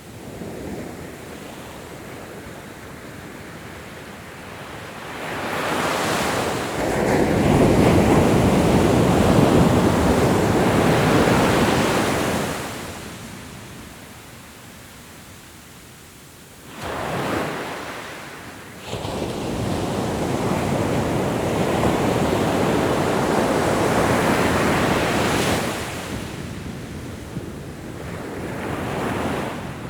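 Ocean waves breaking on a beach: a large wave builds and crashes a few seconds in, a second one past the middle, and a smaller one near the end, with quieter surf hissing between.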